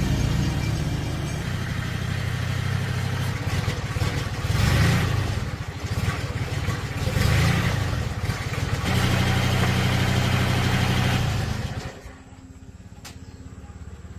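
Old tractor engine running, revving up twice, then running steadily before the sound falls away sharply near the end.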